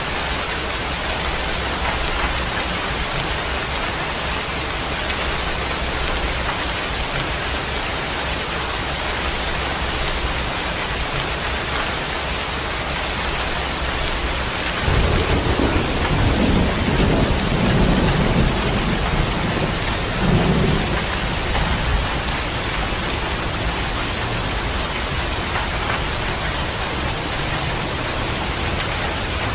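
Steady, even rain falling. About halfway through, a low rumble of thunder rolls in, swells twice and fades away.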